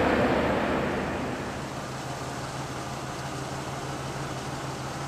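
Rumble of freight hopper cars rolling past on the rails, fading away over the first second or so as the end of the train goes by. After that a steady low engine hum.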